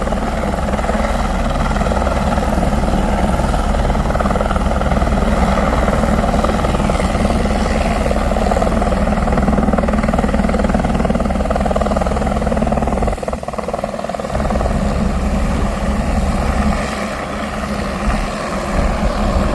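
Firefighting helicopter running close by: a steady fast rotor beat with a high whine over it, dipping briefly in level twice in the second half.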